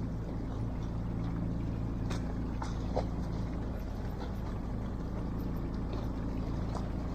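Fishing boat's engine running steadily with a low hum, with a few light clicks about two to three seconds in.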